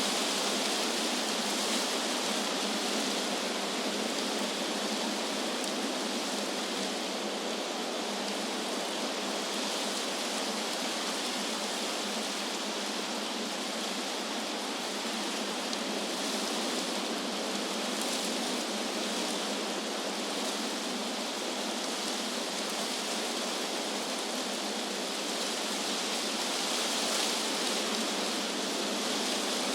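Wind rushing through trees: a steady, even hiss with only slight swells in strength.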